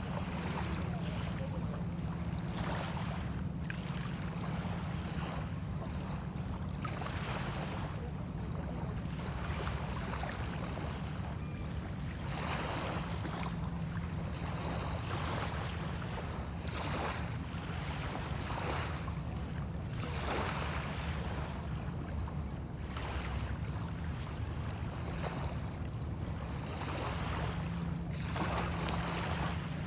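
Small waves washing ashore in irregular surges every few seconds, over a steady low rumble of wind buffeting the microphone.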